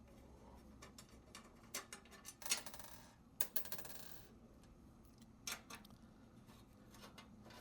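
Small metal clicks and scrapes of a hand tool backing screws out of an espresso machine's side panel, with two short rattling stretches in the middle and loose clicks either side.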